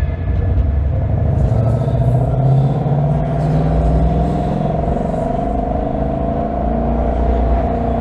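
Ford Mustang GT's 5.0-litre V8 engine and exhaust while driving, a steady low rumble whose engine note rises and falls gently, with tyre and road noise.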